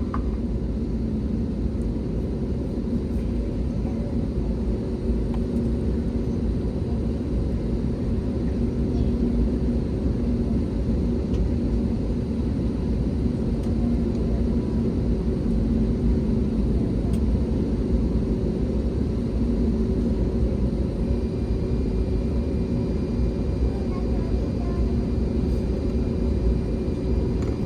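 Steady low rumble and hum of an Airbus A321neo heard from inside the passenger cabin while the aircraft is still on the ground before takeoff. A faint high whine joins about two-thirds of the way in.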